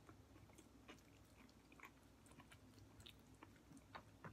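Faint chewing of a mouthful from a chicken burrito bowl, with scattered small wet mouth clicks.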